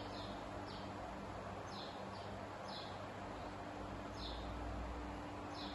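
Faint short, high chirps from a small bird, each sliding down in pitch, repeating roughly once a second over a low steady hum.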